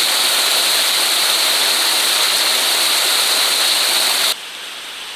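Loud, steady rush of running water that cuts off suddenly about four seconds in, leaving a much quieter background.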